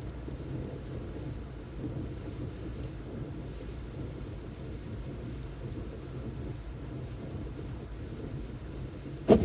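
Steady low rumble of a car's engine and tyres heard from inside the cabin while driving on a snowy road. A short, sharp knock sounds near the end.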